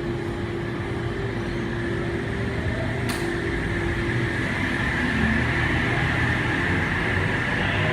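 Electric train humming at the station, a steady drone with a held tone and a high whine that grows slightly louder; one sharp click about three seconds in.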